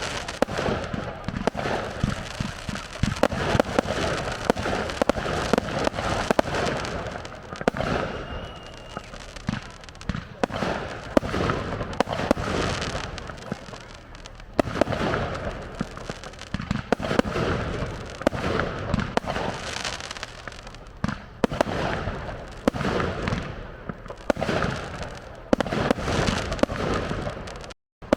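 Fireworks display: a steady barrage of bangs from aerial shells with crackling in between, which cuts out for a moment near the end.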